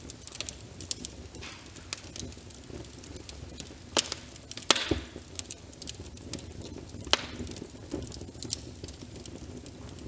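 Wood fire crackling with irregular sharp pops, the loudest two about four seconds in, over a steady hiss of rain.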